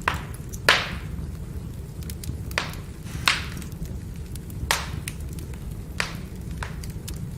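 Burning firewood crackling: many small ticks and about seven sharp, loud pops at irregular intervals over a steady low rumble.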